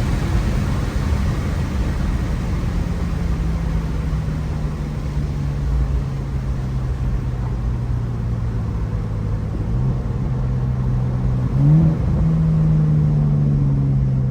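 Single-turbo BMW N54 inline-six running at low, fairly steady revs under road rumble, its pitch slowly sagging as the car cruises off-throttle. About three-quarters of the way through, the revs rise briefly, then settle again.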